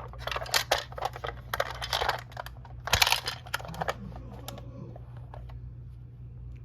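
Light clicks and rustles from a 1/32 scale diecast model truck being handled and turned over by hand, busiest for the first four seconds, then thinning to a few faint ticks, over a steady low hum.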